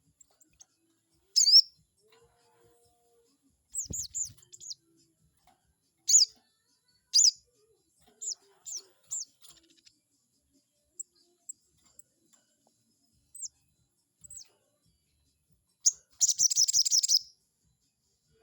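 Sogon bird calling: a series of sharp, high chirps spaced a second or two apart, ending in a fast rattling trill about sixteen seconds in. It is the bird's agitated challenge call, used as a lure to provoke rival birds into answering.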